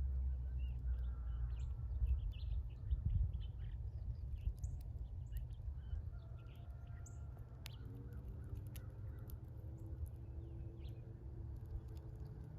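Birds chirping in many short, scattered calls over a steady low rumble that is loudest in the first few seconds.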